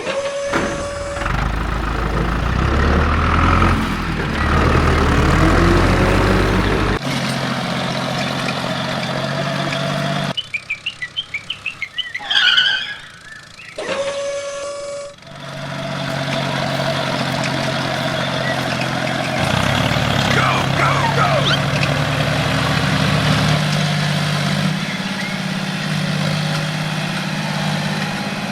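Mini tractor engine running steadily, its tone jumping abruptly several times between cut-together takes. About ten seconds in it gives way to a rapid even pulsing, then brief high chirps, before the engine sound returns.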